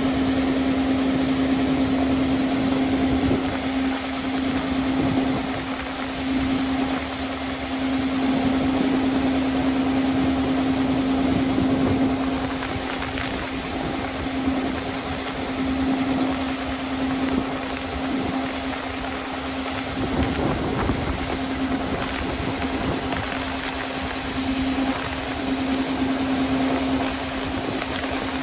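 Harvest machinery running steadily, a constant engine and fan drone with a steady hum and no change in speed.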